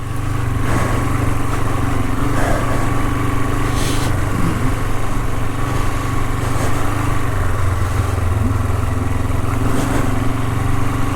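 Honda CL450's air-cooled parallel-twin engine running at a steady speed.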